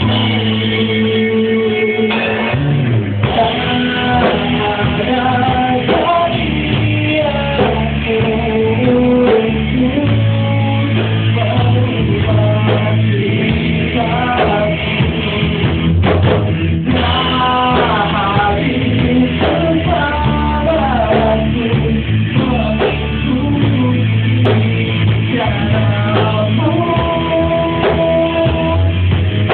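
Rock band playing: electric guitar, bass guitar and drums in a steady, loud full-band passage.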